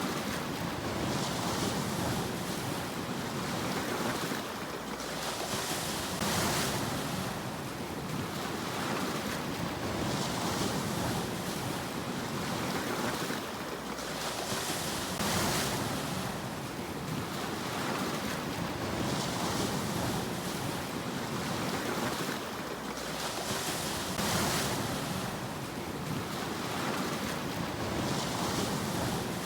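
Sea waves washing onto a shore: a steady rush of surf that swells and falls back about every four to five seconds.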